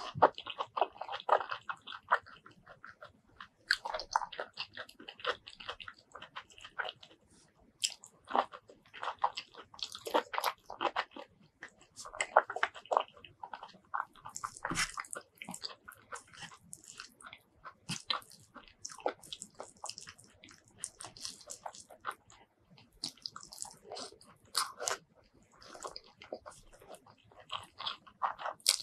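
Close-miked eating sounds: crisp crunching bites of green vegetables and wet chewing of rice with curry, coming in bursts with short pauses between mouthfuls.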